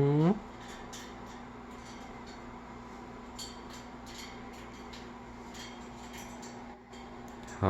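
Quiet room with a steady low hum and a few faint, scattered clicks and taps.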